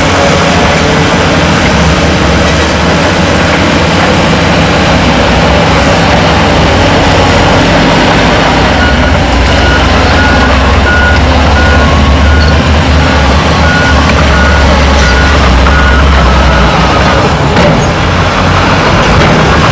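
Heavy diesel earthmoving machinery running loudly under load, with a reversing alarm beeping about twice a second for several seconds midway.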